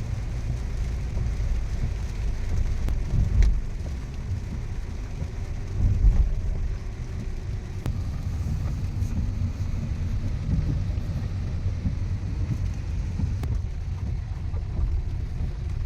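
Steady low road and engine rumble of a car heard from inside the cabin while driving, with two heavier low surges about three and six seconds in.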